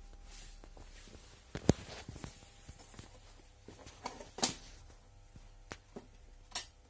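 Scattered light clicks, taps and brief rustles of small parts and tools being handled on a workbench, with one sharp click about a second and a half in, over a faint steady electrical hum.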